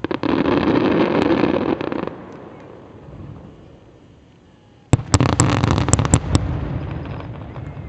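Fireworks display: a dense crackling barrage for about two seconds that dies away. About five seconds in comes a sudden loud bang, then a rapid string of sharp cracks for a second and a half, trailing off into a rumble.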